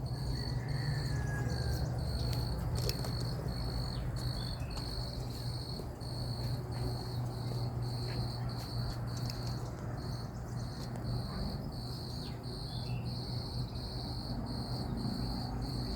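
A cricket chirping in an even, steady rhythm, about two high chirps a second, over a constant low hum. A single bird gives a brief falling whistle near the start.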